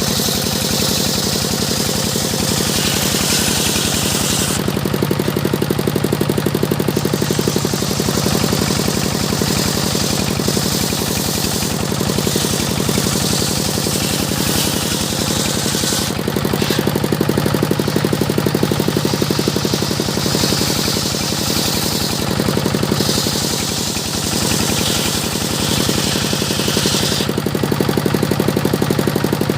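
Engine-driven circular saw cutting teak: the engine runs steadily throughout, and the hiss of the blade in the wood comes and goes in several stretches a few seconds long.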